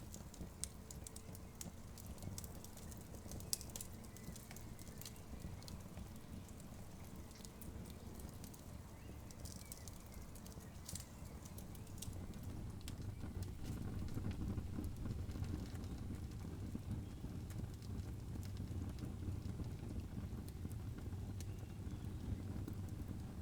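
Campfire crackling, with scattered sharp pops over a low, steady rumble that grows a little louder about halfway through.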